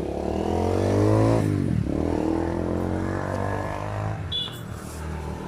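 A motor vehicle's engine running close by: its pitch drops as it slows, about two seconds in, then rises again as it speeds back up and runs on steadily.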